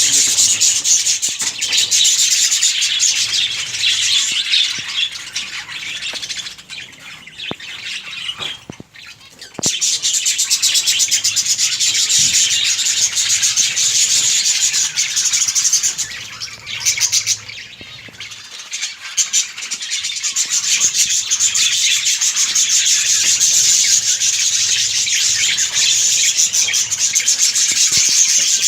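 A colony of budgerigars chattering and chirping continuously, many birds at once, with two short lulls, about a quarter of the way in and again past halfway.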